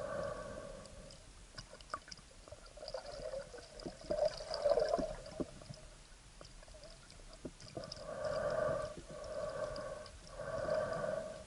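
Water sounds heard through an action camera's waterproof housing, with clicking and crackling throughout. A few hollow whooshes about a second long come at the start, again near the middle, and twice near the end.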